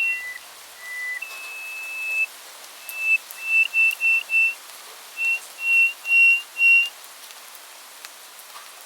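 A songbird singing clear, pure whistled notes: a couple of lower notes, then one long held note, then runs of short notes at a single pitch, the last ones loudest. The song stops about seven seconds in, leaving a steady hiss.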